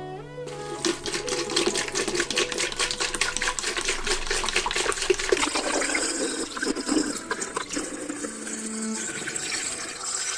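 Water splashing and trickling, with many small irregular clicks and knocks, as coffee grinder parts are washed by hand.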